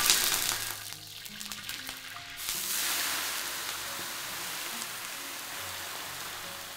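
Fresh leafy greens hitting hot oil in a large iron wok: a loud sizzle starts suddenly about two and a half seconds in and slowly dies down as the leaves wilt.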